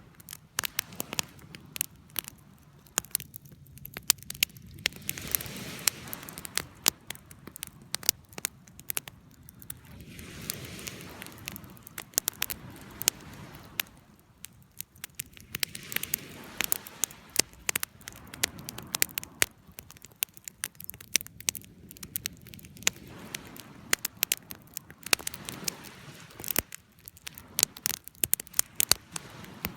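Wood fire crackling: irregular sharp pops and snaps over a soft rushing hiss of flame that swells and fades every few seconds.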